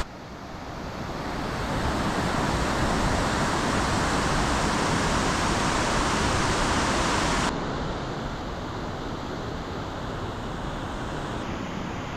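Snowmelt mountain stream rushing in a steady noisy wash. About two-thirds through it cuts abruptly to a quieter, duller rushing noise.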